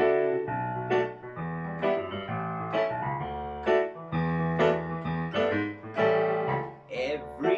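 Piano playing an instrumental break between verses of a children's song, notes and chords struck in a steady beat, with no singing.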